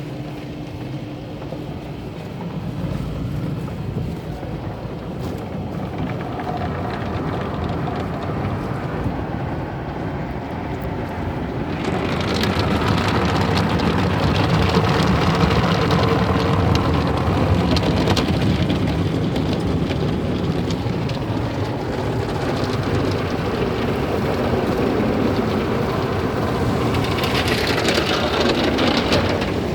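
Car wash tunnel equipment running over a car, with a steady rush of water spraying and machinery working. About 12 seconds in, a louder, hissier spray sets in and continues until it eases near the end.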